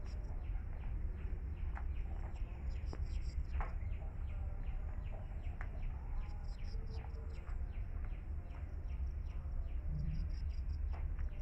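Birds chirping over and over in short, quick downward-sliding calls, with higher chirping at times above them, over a steady low rumble.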